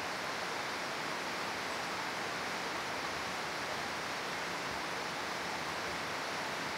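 Steady hiss of heavy rain, an even unbroken wash of noise.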